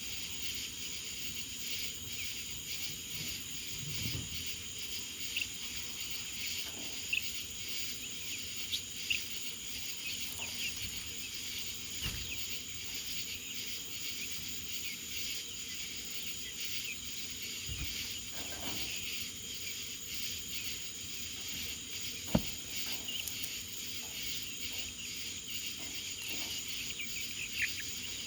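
Steady insect chorus, high-pitched and unbroken, with a few faint short chirps scattered through it and one sharp knock a little after twenty-two seconds in.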